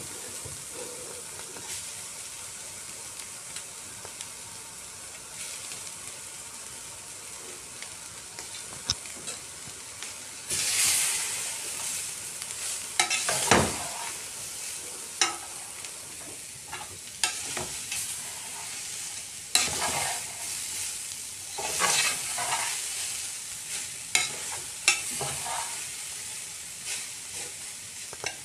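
Shredded carrots and capsicum sizzling steadily as they fry in an aluminium pot. About ten seconds in, shredded cabbage goes in and the sizzle grows louder, then a spatula stirs the vegetables, scraping and knocking against the pot again and again.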